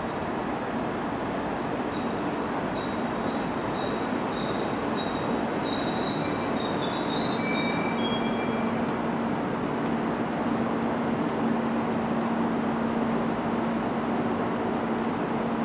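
E2 series Shinkansen train pulling into the platform and slowing to a stop: a steady rumble, with several high squeals as it brakes during the first half. A steady low hum remains once it has stopped.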